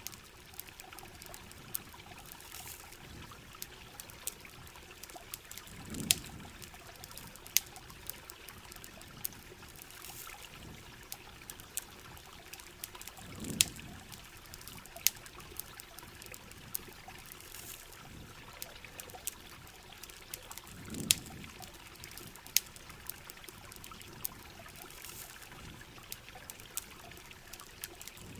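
Steady heavy rain with a campfire crackling in sharp, scattered pops and a trickle of running water beneath. A low dull swell comes about every seven and a half seconds.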